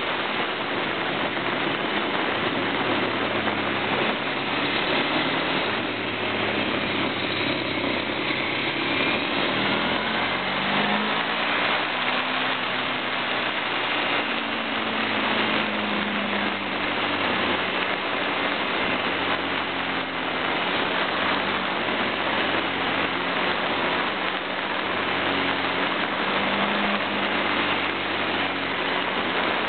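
Wind noise rushing over a camera mounted on a motorbike's indicator, with the motorbike's engine running underneath, its pitch rising and falling as the bike speeds up and slows.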